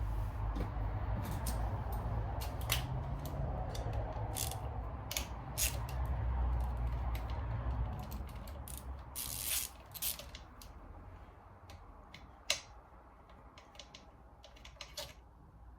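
Hand tools loosening and pulling the bolts of an engine's clutch-side case: scattered sharp metallic clicks and clinks of wrench and bolts, busier in the first half.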